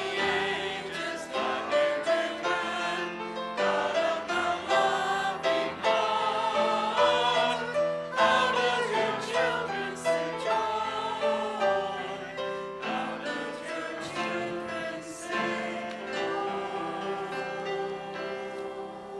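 A church congregation sings a hymn with instrumental accompaniment, the final phrase dying away near the end.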